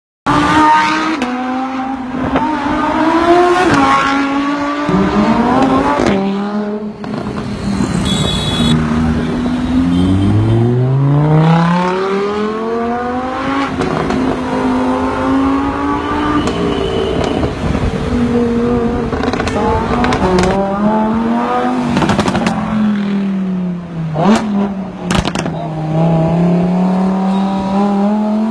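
Lamborghini sports car engine revving and running loudly, its pitch rising and falling again and again as it speeds up and slows.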